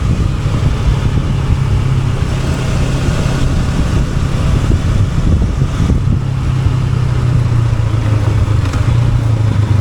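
Honda NX500's parallel-twin engine running at a steady, low pitch.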